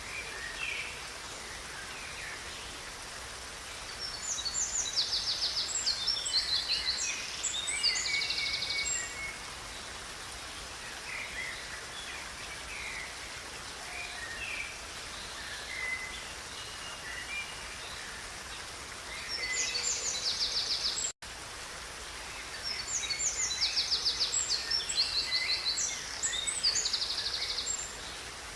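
A songbird singing three long phrases of fast, high trills over the steady rush of a river, with scattered shorter chirps between them. The sound cuts out for an instant about two-thirds of the way through.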